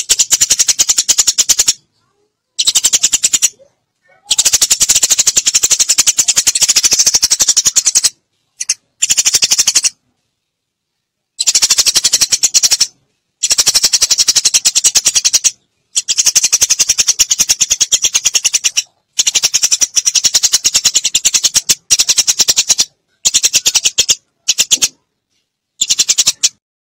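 Eurasian tree sparrows chattering: loud, rapid, ticking calls in bouts of one to four seconds, broken by short silences.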